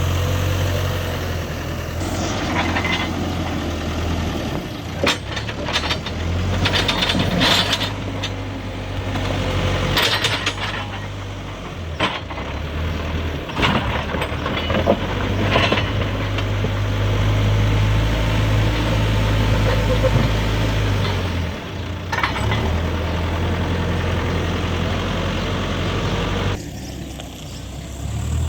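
Hidromek HMK 102 B backhoe loader's diesel engine running and working under changing load, with scattered knocks and clanks in the middle stretch. The sound drops noticeably quieter shortly before the end.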